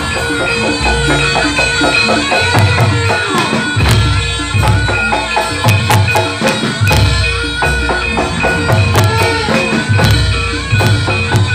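Traditional Javanese barongan accompaniment music: a gamelan-style ensemble with fast metallic pitched strikes and ringing tones over low drum beats about once a second, plus sharp jingling hits.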